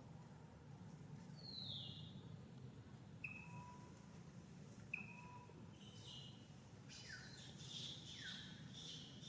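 Faint bird calls: a single falling note about a second and a half in, two short whistled notes a couple of seconds apart, then a quicker run of falling calls and chirps through the second half. A steady low hum lies underneath.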